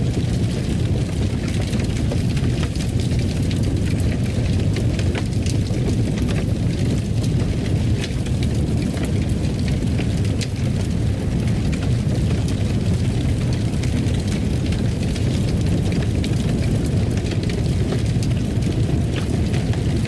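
Fireplace fire burning: a steady low rumble with many scattered small crackles and pops.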